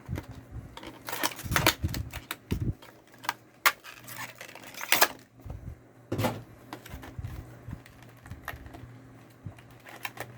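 Irregular light clicks and taps on a desk: a cluster of quick clicks, then a few single sharp ones spaced a second or so apart, thinning out toward the end.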